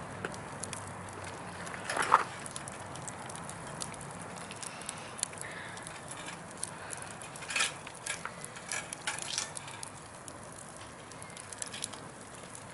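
Campfire burning: a steady hiss with scattered crackles and wood pops, the loudest pop about two seconds in and a run of crackling later on.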